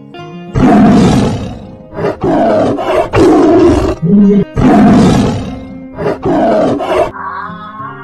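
A big cat roaring, a run of about six loud roars and growls, some long and some short, that stops about a second before the end. Background music plays underneath.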